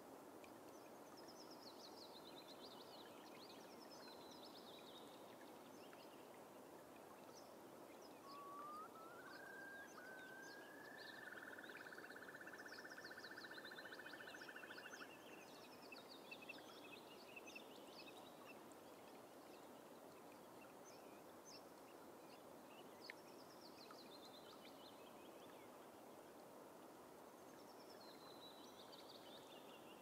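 Whimbrel song: rising whistled notes about eight seconds in, running into a long bubbling trill that stops suddenly several seconds later. Willow warblers sing short, high, descending phrases again and again over a faint steady hiss.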